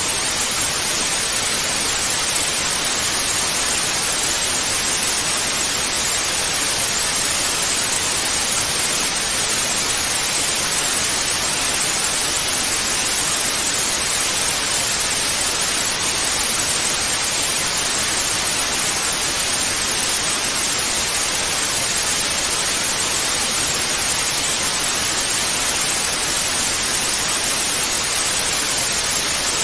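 Television static (white noise) hissing steadily and evenly, with no changes. It is bright and hissy, heavier in the highs than the lows.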